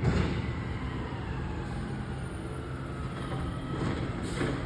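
Garbage truck engine running with a steady low rumble, with a sharp burst of noise right at the start and a short hiss about four seconds in.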